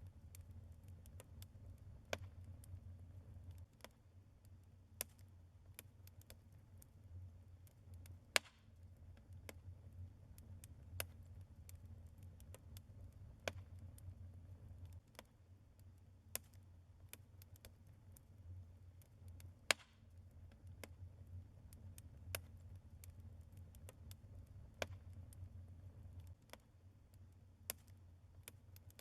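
Burning logs in a fireplace crackling, with scattered sharp pops at irregular intervals, two louder ones about a third and two thirds of the way through, over a low steady rumble.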